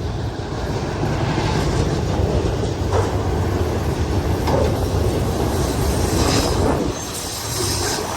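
Union Pacific freight train passing at speed: a heavy, steady rumble with wheels clicking over the rails. It swells about a second in and eases slightly near the end.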